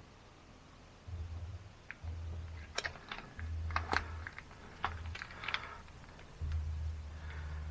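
Plastic clicks and rattles from a hand pump and gear oil bottle being handled, mostly in the middle of the stretch. Several low rumbling stretches come and go, the longest starting near the end.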